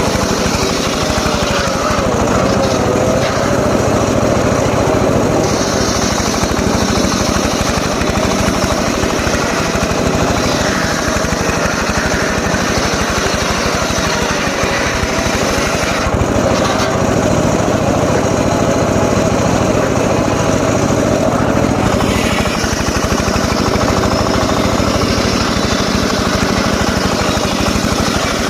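Engine-driven saw running steadily and loudly, its pitch wavering slightly in the first few seconds.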